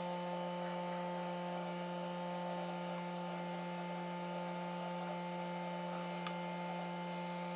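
Steady electrical mains hum, a low buzz with several fixed tones over a light hiss, with one faint click about six seconds in.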